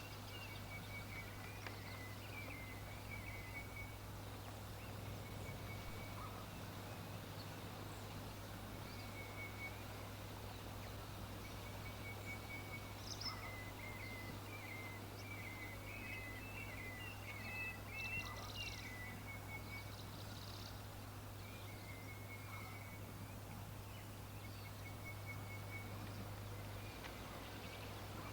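Birds chirping in short, rapid repeated trills, busiest about two-thirds of the way through, over a steady low hum.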